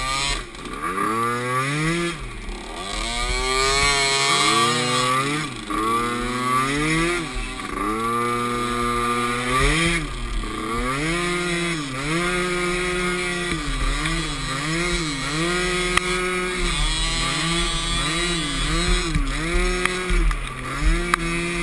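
Small youth ATV engines revving up and down again and again as the quads race, the throttle opened, held and let off about once a second.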